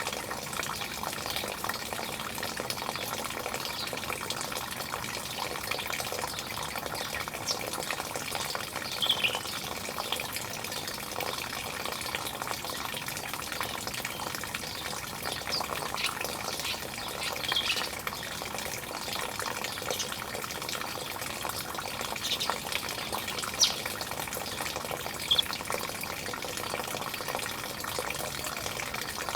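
Steady sound of running water, with a few short bird calls heard now and then over it.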